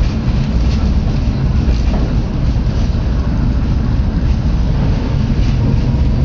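Steady low rumble of a moving vehicle, with faint scattered rattles and clicks.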